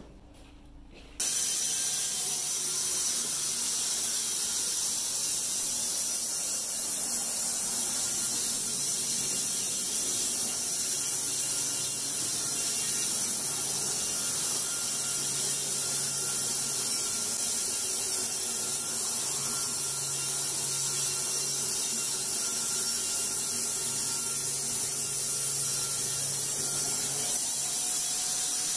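Machinery running steadily with a loud high hiss, starting abruptly about a second in.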